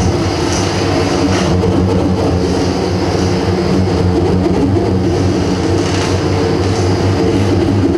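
Live noise music: a loud, dense wall of hiss and rumble over steady low droning tones, with no clear beat.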